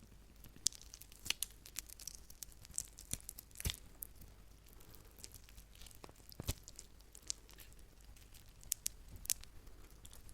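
Meat being handled, giving irregular sharp clicks and small tearing sounds, with two louder snaps about four and six and a half seconds in.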